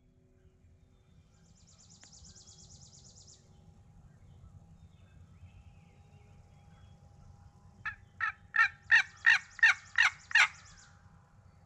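Loud bird calls: a series of eight harsh notes about a third of a second apart. Earlier, a faint high trill from a small songbird.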